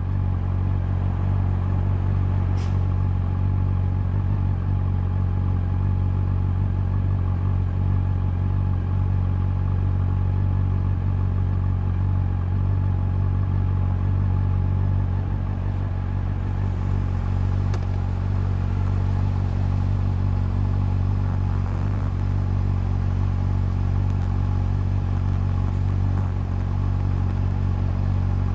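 Honda CB400 Super Four's inline-four engine and exhaust running at a steady engine speed, holding an even pitch with no revving.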